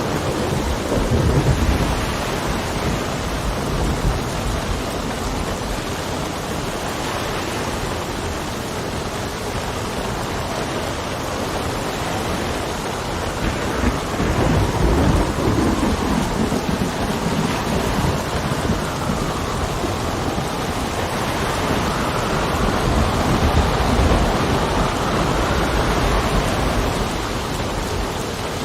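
Steady heavy rain with low rolls of thunder swelling up three times, and wind gusting with a faint rising and falling whistle in the second half.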